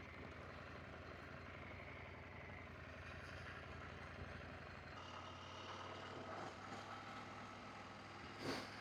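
Adventure motorcycle engine running faint and steady at low speed, with one short louder sound near the end.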